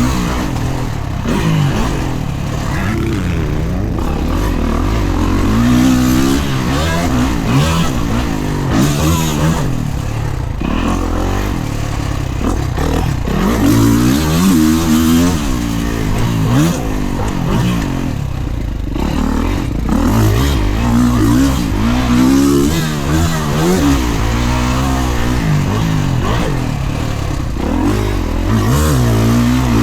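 Kawasaki KX450 motocross bike's single-cylinder four-stroke engine ridden hard, revving up and falling away over and over, its pitch climbing and dropping every few seconds as the throttle is opened and rolled off.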